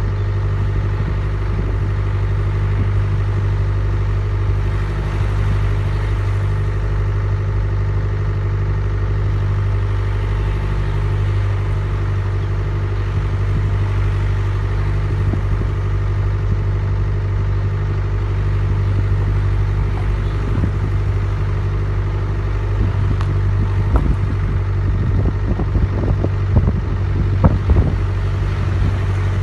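Motor vehicle engine running at a steady low hum, with a few knocks and rattles near the end.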